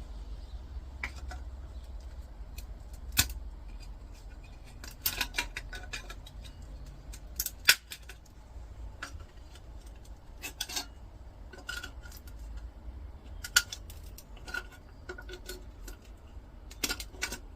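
Hand tools and small metal parts clicking and clinking irregularly as a transformer is worked off an old electricity meter's circuit board, with a few louder knocks among the light taps.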